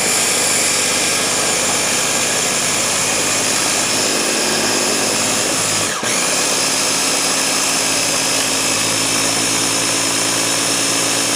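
Ninja blender motor running continuously, churning thick mint chip ice cream into a Blizzard-style dessert. Its sound dips for a moment about six seconds in, then carries on steadier.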